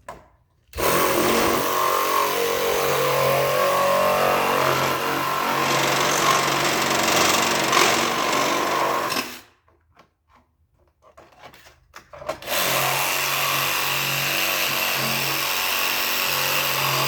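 A handheld power tool cutting through the hard plastic dash shroud of a lawn tractor, in two long steady runs with a pause of about three seconds in between.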